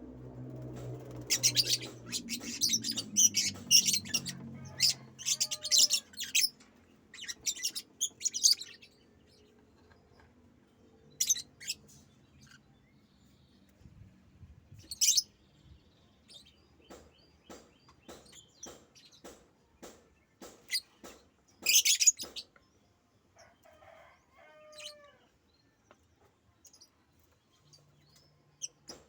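A pet bird chirping in quick, sharp bursts, densely for the first several seconds, then in occasional single bursts. A run of faint, evenly spaced ticks in the second half.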